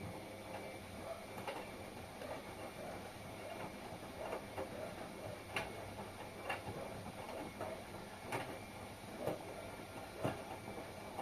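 Washing machine running a wash, with a steady swish and sharp clicks and knocks at uneven spacing, about one a second, as the drum tumbles the load.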